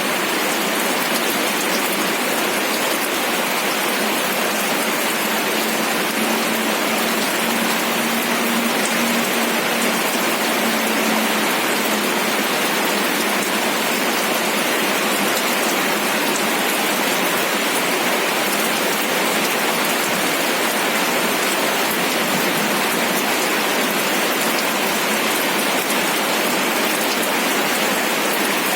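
Steady rain falling, an even, unbroken hiss of many drops on surfaces.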